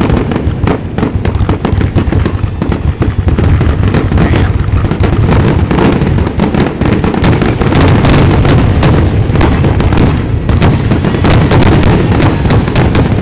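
Fireworks display in its grand finale: a loud, continuous barrage of shells bursting, with dense sharp cracks over a constant low rumble.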